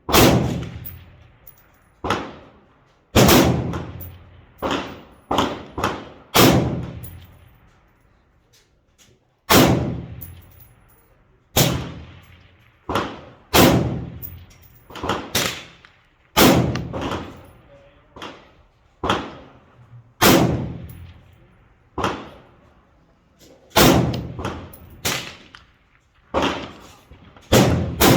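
Semi-automatic 5.56 mm AR-15-type rifle (an M4 clone) fired one shot at a time, about two dozen shots. The shots come roughly a second apart with a few longer pauses, and each one trails off in an echo.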